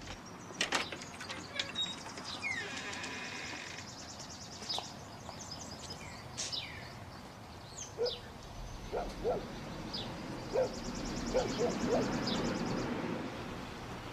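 Outdoor ambience with birds chirping: many short rising and falling calls, and a fast high trill in two stretches.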